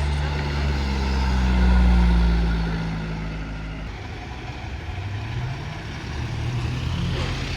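A car's engine and exhaust as the car pulls away. The low engine note swells to its loudest about two seconds in, then fades, and an engine note rises again twice later on.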